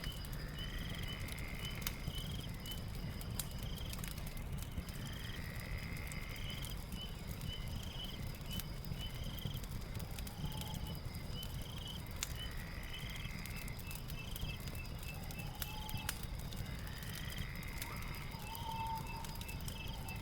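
Night ambience: a steady high insect trill, rows of quick repeated chirps and a rising call every few seconds, over a low rumble with scattered crackling clicks from a fire.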